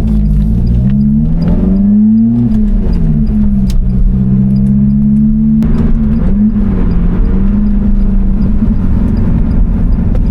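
Lotus Elise Cup 250's supercharged 1.8-litre Toyota four-cylinder engine pulling while driving. Its pitch rises about a second and a half in, then drops, dips once more, and settles to a steady drone.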